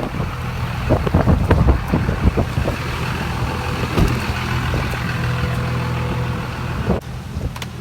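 A motor vehicle running, with a steady low engine and road hum. Short irregular knocks and rattles come during the first few seconds, and a hiss swells and fades in the middle.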